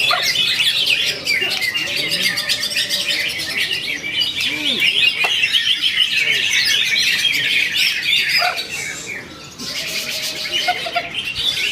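Cucak hijau (green leafbird) singing a fast, continuous stream of high chirps and trills, with a brief pause about nine seconds in.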